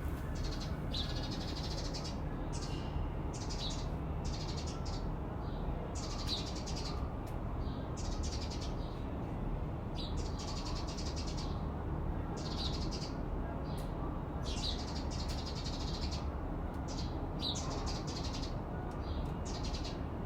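Steady rush of a waterfall, with birds chirping in short high calls that come again and again over it.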